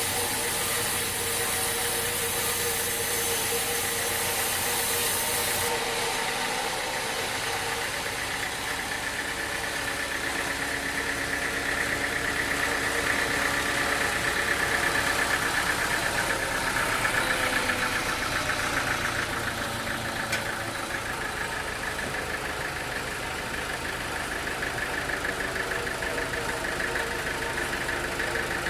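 Sawmill machinery running with a steady mechanical drone. A high whine grows louder about halfway through and then eases off, with a single sharp click shortly after.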